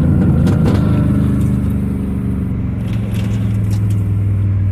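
Chevrolet pickup's engine running with a steady drone, heard from inside the cab while driving, easing slightly in pitch in the first couple of seconds, with a few light ticks and rattles over it.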